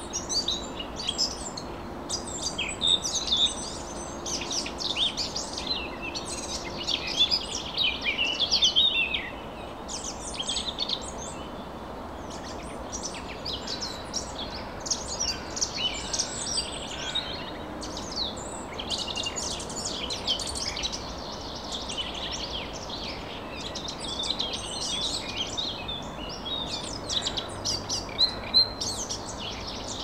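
Several birds singing and calling at once, a dense overlapping chorus of high chirps and trills that thins briefly about ten seconds in, over a steady rushing background noise.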